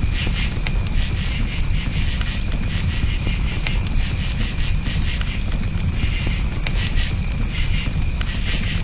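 Crickets chirping in quick repeated pulses over a campfire burning with a steady low rumble and scattered crackling pops.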